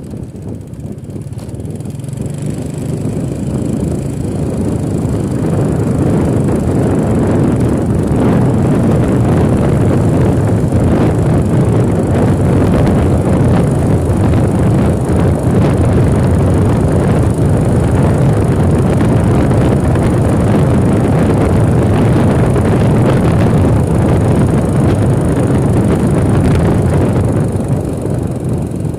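Vehicle on the move with wind rushing over the microphone, a steady roar that builds over the first several seconds and then holds level.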